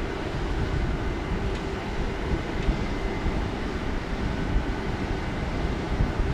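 A train in the station running steadily: a continuous low rumble with a constant hum.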